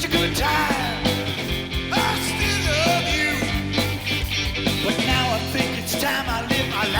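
Live rock band playing a song, with drums, bass and electric guitar.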